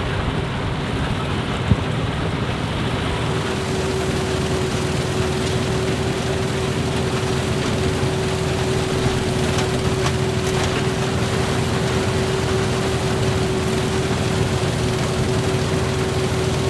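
Claas Huckepack implement-carrier combine running steadily while threshing wheat: engine and threshing works, with a steady whine that is clearer after about three seconds. A single sharp knock sounds about two seconds in.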